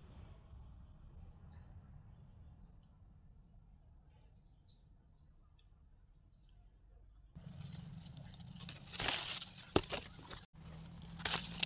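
Small birds chirping in short repeated calls over a steady high-pitched tone. About seven seconds in, this gives way to rustling and crackling of leaves and branches, with loud bursts around nine and eleven seconds.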